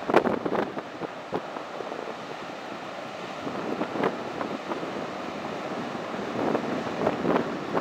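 Glacial meltwater waterfall rushing steadily, with wind buffeting the microphone in short gusts.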